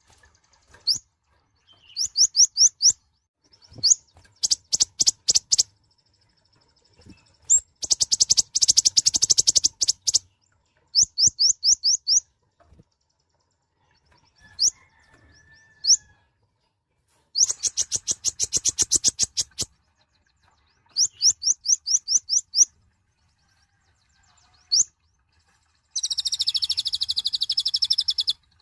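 Kolibri ninja sunbird singing: bouts of rapid, high-pitched chirps in fast trains, broken by short pauses, with a dense buzzing trill near the end.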